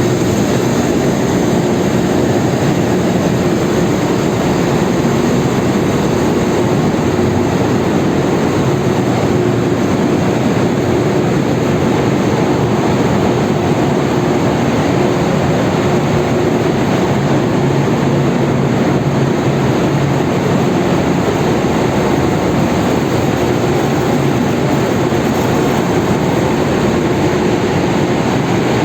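Loud, steady machinery noise in a tanker's engine room: engines and auxiliary machinery running together as an even din with a few steady humming tones.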